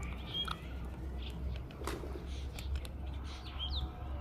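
Pet parrot giving a few short chirps and squeaks, one quick rising squeak near the end, over a steady low hum and scattered light clicks.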